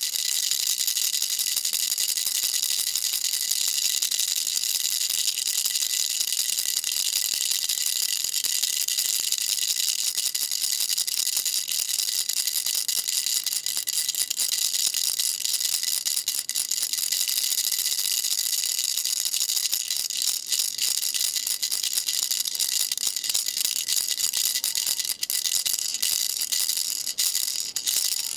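Baby rattle shaken continuously: a dense, high-pitched stream of small pellets rattling without pause, with a few brief breaks near the end.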